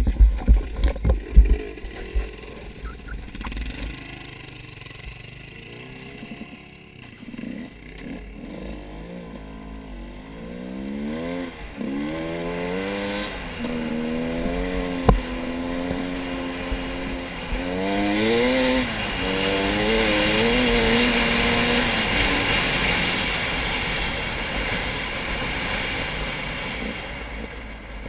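A motor vehicle engine passing, its pitch climbing and dropping several times as if shifting gears, growing louder and then fading near the end. Loud buffeting on the microphone in the first two seconds.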